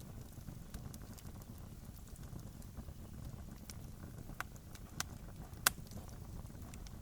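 Campfire crackling: a steady low rumble with scattered sharp pops, the loudest about five and a half seconds in.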